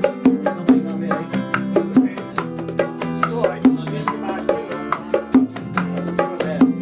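Instrumental bachata passage: bongos struck by hand in a steady pattern over plucked guitar and low held bass notes.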